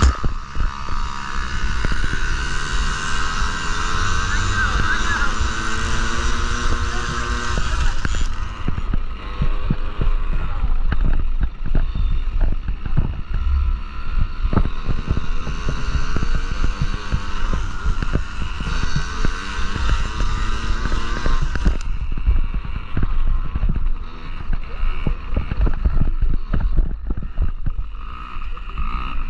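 Yamaha PW50 mini dirt bikes' small single-cylinder two-stroke engines buzzing, rising in pitch as they accelerate over the first several seconds, then revving up and down. Heavy low thumping and knocks run underneath.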